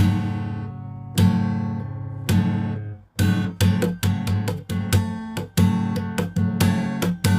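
Acoustic guitar intro: three chords each struck once and left to ring, then steady rhythmic strumming from about three seconds in.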